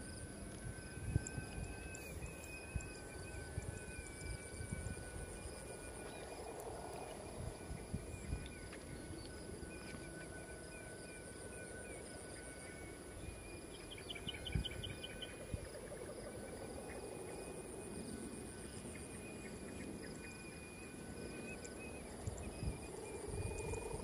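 Faint outdoor ambience: a steady high insect drone and thin sustained whistling tones over light wind rumble on the microphone.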